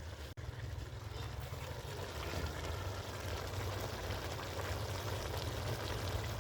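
Steady rain falling, an even hiss of water with a low rumble underneath.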